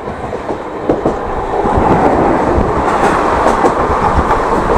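Indian Railways express train running at speed, heard from inside the coach through an open window: a steady rumble with the 'kadak kadak' clatter of the wheels over the rail joints. It grows louder about a second and a half in.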